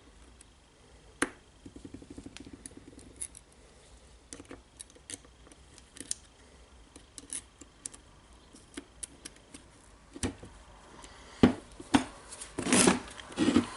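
Small metal gearbox parts of a cordless drill clicking and clinking as they are handled and fitted by hand: scattered sharp clicks, a short run of rapid ticking about two seconds in, and louder clattering near the end.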